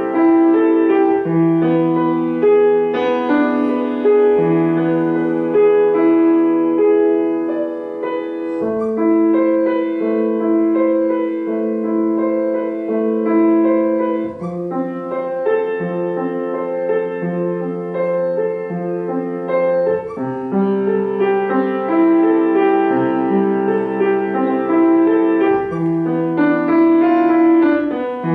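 Solo piano played by a beginner student: a slow, simple piece of held notes over a repeating low accompaniment.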